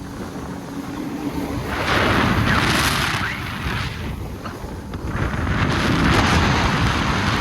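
Jet ski running on the river, with a rushing of water spray and wind buffeting the microphone, swelling louder twice.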